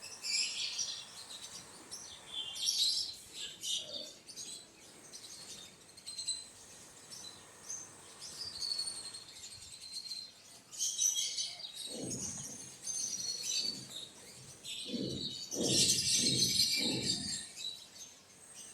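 Small birds chirping in many short, high-pitched calls, with a few low thuds about twelve seconds in and a quick run of them near the end.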